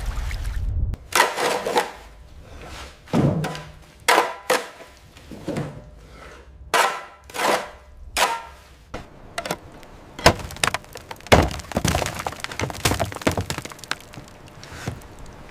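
A series of irregular knocks and clatters, a dozen or so, some with a brief ring.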